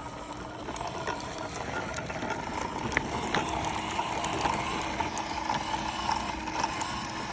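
Kids' dirt bike's drive running, a steady whirring rattle with a constant whine and scattered clicks.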